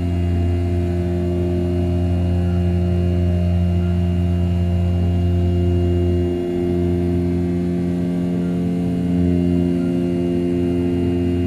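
500 W brushless spindle of an RZ420 desktop CNC mill running at 6000 rpm, its end mill rough-cutting A7075 aluminium: a steady humming drone that dips briefly about six and a half seconds in.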